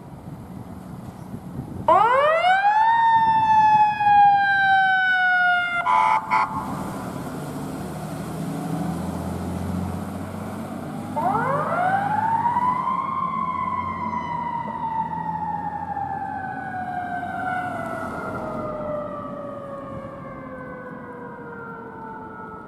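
Fire truck siren winding up twice, each time rising quickly and then slowly winding down, with a short horn blast about six seconds in and a heavy engine rumbling as the truck passes.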